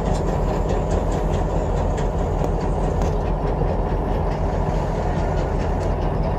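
Strong sandstorm wind buffeting, a steady heavy rumble with many small ticks of blown sand and grit striking.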